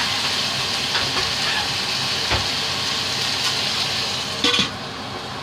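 Chicken pieces sizzling in oil in a stainless steel wok, with a few short knocks. About four and a half seconds in comes a brief clank as a lid goes on the wok, and the sizzle turns muffled and quieter.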